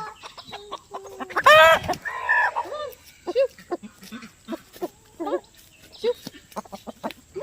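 Chickens clucking in short repeated calls, with one loud, longer squawk about a second and a half in.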